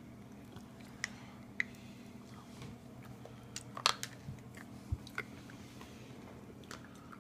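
People biting into and chewing gingerbread and candy, in scattered sharp crunches, the loudest about four seconds in.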